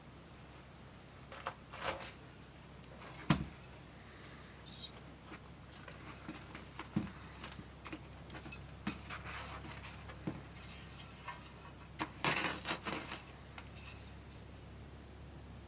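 Scattered clinks, knocks and rustles of small hard objects being handled, with one sharp knock about three seconds in and a brief cluster of clinking near the end.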